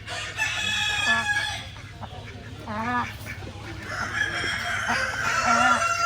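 Chickens at a poultry auction: roosters crowing and hens clucking. One long crow comes right at the start, shorter calls follow, and another long crow starts about four seconds in.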